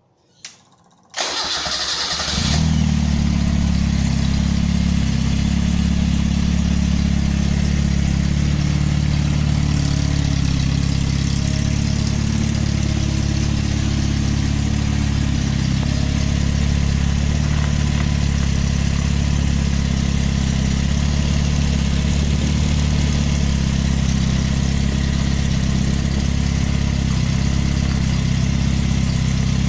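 Toyota 4K four-cylinder engine started about a second in: a short crank, then it catches and idles steadily. The engine has just undergone major repairs and has only about ten minutes of running on it.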